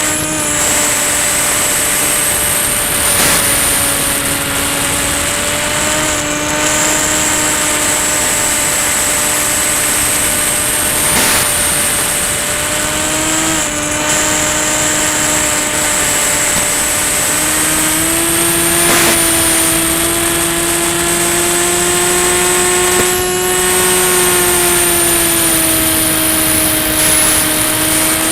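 Electric motor and propeller of a Ranger EX FPV plane running steadily in flight: a droning tone with a high whine above it, its pitch stepping up slightly about two-thirds of the way through. Short crackles come every few seconds.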